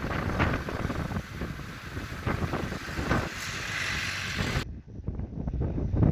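Wind rumbling and buffeting on the microphone, with an abrupt cut to another shot about two-thirds of the way through.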